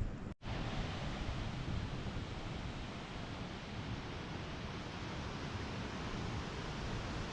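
Steady rushing of flowing water, an even hiss with no rhythm, recorded on a GoPro Hero 10's own microphone; a brief dropout about half a second in marks a cut.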